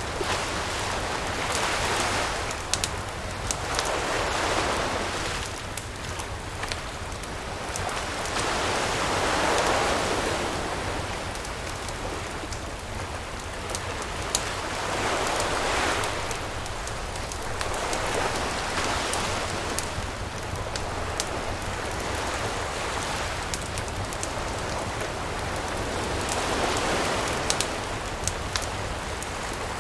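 Surf washing in and out in slow swells every few seconds, with a campfire crackling and snapping in sharp pops over it.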